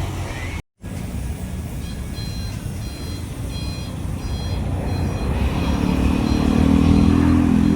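Steady low engine rumble, broken by a momentary dropout about a second in. From about two seconds in, short high beeps repeat roughly one and a half times a second for a few seconds, like a reversing alarm. Near the end a deeper rumble swells up and peaks.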